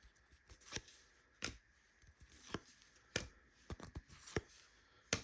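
Trading cards and pack wrappers being handled: a string of short, separate papery swishes and taps as cards are slid and flipped, about eight in five seconds.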